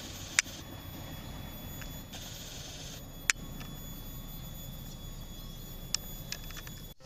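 Passenger train rolling away on curved track: a steady low rumble of wheels on rail, with a couple of sharp clicks from the wheels.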